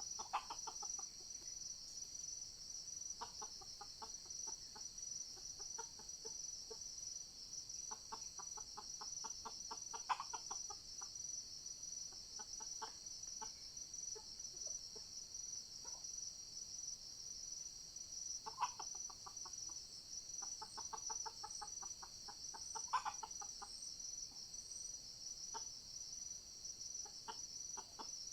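Red junglefowl clucking in short, rapid runs of notes every few seconds, over a steady high drone of forest insects.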